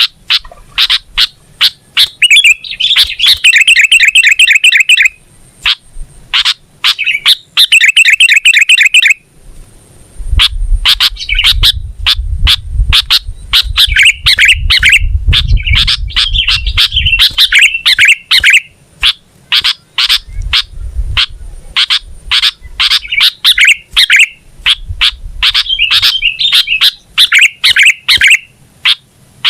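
Sooty-headed bulbul singing continuously: a rapid run of short sharp notes and fast chattering trills. A low rumble sits under the song for several seconds in the middle.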